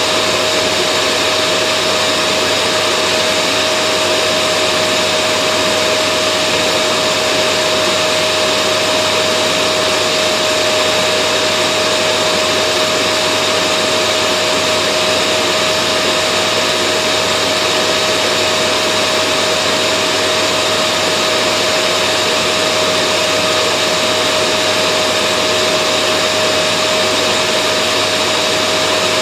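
Vacuum cleaner motor running continuously, a steady whooshing hum with a high whine that never changes.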